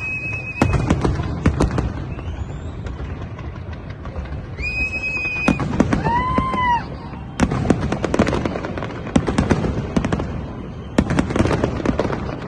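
Fireworks going off in rapid volleys of bangs and crackles, in several clusters. Whistle-like tones sound at the start, just before the middle, and as an arching tone a little after the middle.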